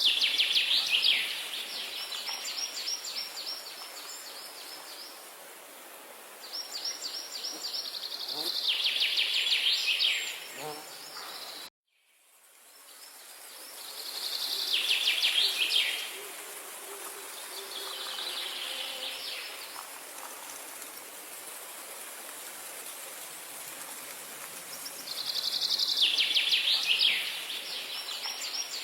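A songbird singing short, rapid trilled phrases, one every few seconds, over a steady high hiss of outdoor ambience. The sound cuts out abruptly about twelve seconds in and fades back up.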